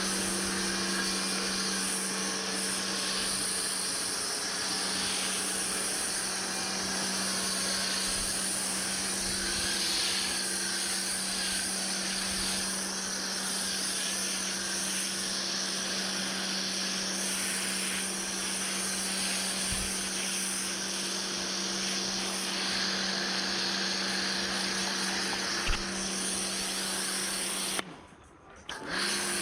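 Pressure washer running: a steady motor-and-pump hum under the hiss of the high-pressure water spray. It cuts out abruptly near the end and starts again about a second later.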